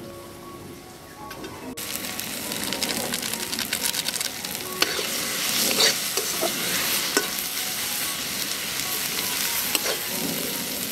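Onion and tomato with spices sizzling in hot oil in a kadai while a spatula stirs and scrapes the pan, mixing the masala in. The frying starts abruptly about two seconds in after a quieter opening.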